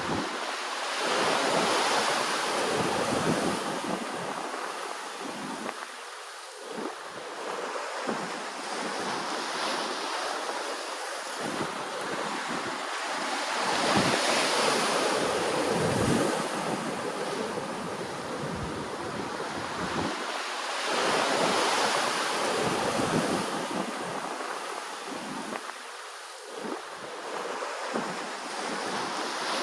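Ocean waves breaking and washing in, a steady rush that swells and fades in slow surges several seconds apart, with wind buffeting the microphone.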